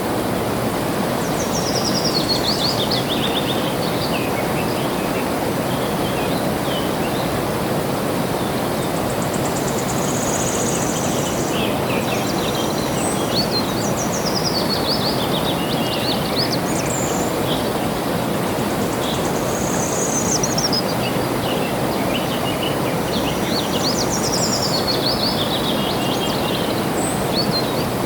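Steady rush of flowing water with birds singing over it: several songs of quick notes falling in pitch, recurring every few seconds.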